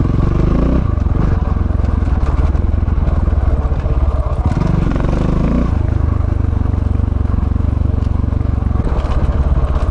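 KTM 690 Enduro's single-cylinder engine running under load off-road, its note shifting with the throttle about a second in and again in the middle.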